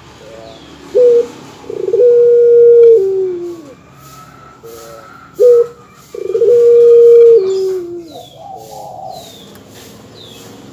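Dove cooing twice: each time a short note, then a long held coo that steps down in pitch near its end. Faint high chirps from small birds come in near the end.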